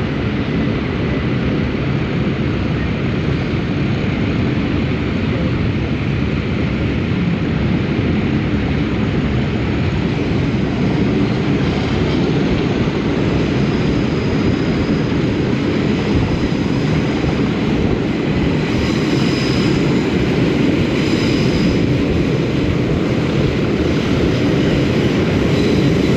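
English Electric Class 37 diesel locomotive 37240 running steadily, its engine a continuous loud drone, after coupling up to the train.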